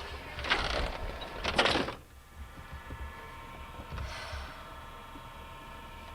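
A door being opened and shut, with two loud scraping, rattling noises in the first two seconds. After that it goes quiet except for a faint steady hum and one soft brush of noise about four seconds in.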